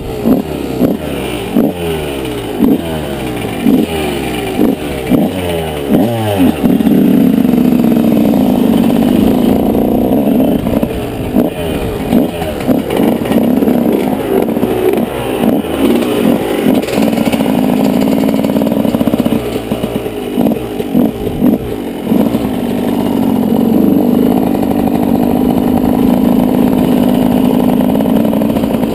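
2003 Yamaha YZ125 two-stroke motocross bike being ridden hard: a quick run of rising revs through the first six seconds or so, then the engine held at high revs, with brief drops as the throttle is rolled off.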